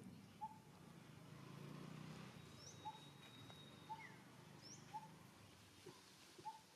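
Faint bird calls: a short note repeated roughly once a second, with a few higher sweeping notes in between.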